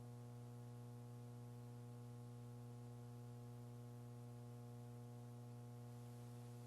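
Faint, steady electrical hum with light hiss on an open, idle audio line, with no voices.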